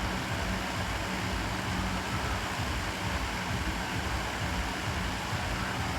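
Steady low hum with an even hiss of room background noise, unchanging throughout.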